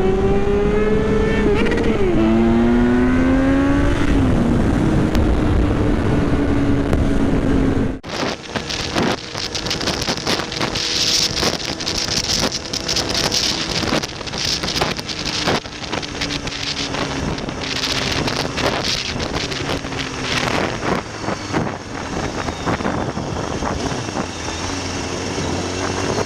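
Motorcycle engine pulling up through the gears, its note rising with a couple of drops at the shifts and then holding steady. About eight seconds in, the sound cuts abruptly to heavy wind buffeting on the microphone, with a fainter engine note underneath.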